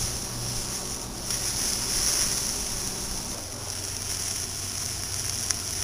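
Pork chops sizzling in a frying pan over a wood-fired brick rocket stove: a steady high hiss, with one sharp click near the end.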